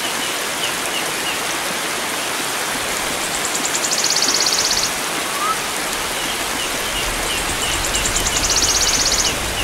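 Steady rush of flowing water, with a bird repeating short high chirps about three times a second. Twice a rapid, high buzzing trill sounds for about a second and a half, the loudest thing heard.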